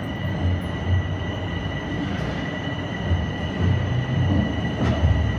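Toronto TTC subway train running past, a low rumble of wheels on rails with a steady high-pitched wheel squeal.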